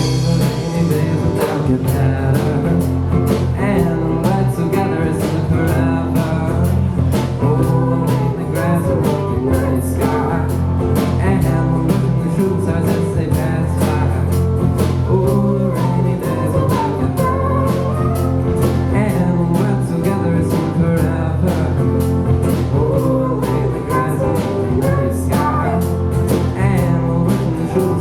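A live rock band playing: a drum kit keeping a steady beat under guitar and bass, with sung vocals.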